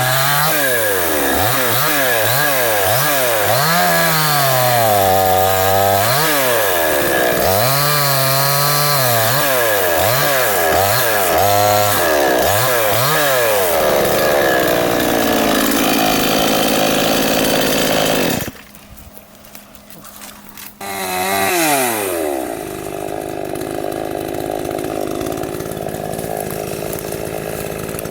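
Salemmaster two-stroke gasoline chainsaw revving up and down over and over, about once a second, then held at high speed. About two-thirds in it cuts out abruptly, gives one short rev that falls away, and settles into a steady lower idle.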